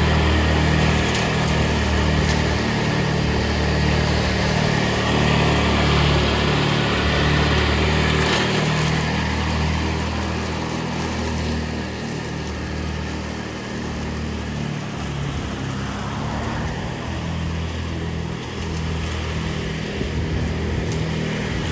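Riding lawn mower engine running steadily under load while cutting grass.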